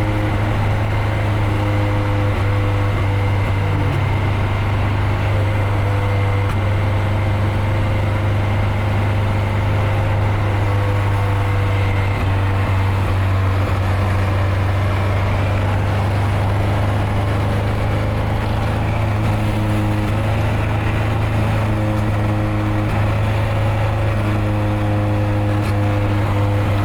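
Nissan 240SX engine and exhaust droning at a steady, unchanging pitch while the car cruises, heard from the driver's seat, with road noise.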